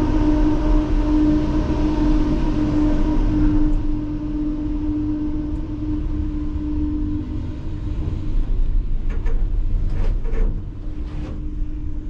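A vehicle running: a steady hum over a low rumble, with a few short knocks near the end.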